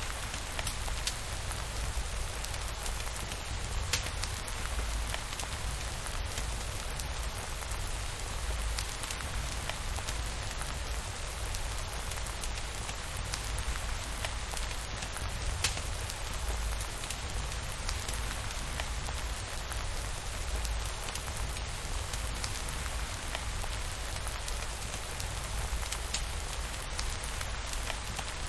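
Steady rainfall, an even hiss with a low rumble underneath and scattered sharp ticks throughout.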